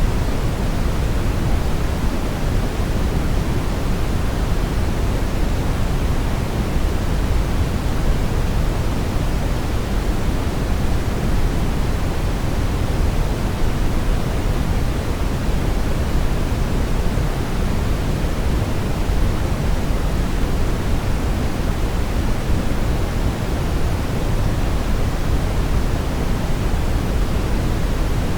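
Steady brown noise: a deep, even rumbling hiss, heaviest in the bass and without any change or event.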